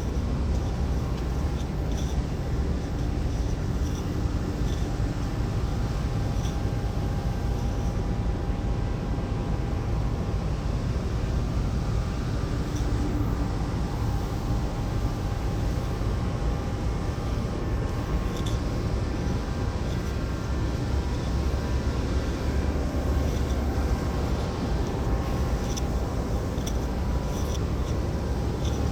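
Steady low rumble of a car ferry under way, its engines running constantly, with a faint steady hum over it.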